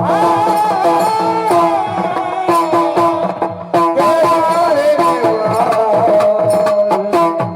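Marathi kirtan music: a held, wavering sung melody over a steady drone with hand-drum strokes keeping time.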